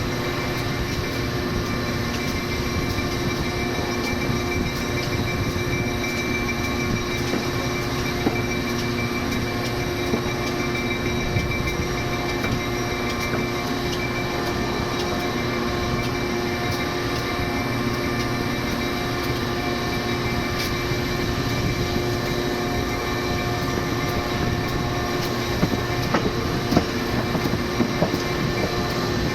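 Panama Canal Railway passenger train running along the track: a steady rolling noise with a constant hum of several held tones, and a few sharp knocks near the end.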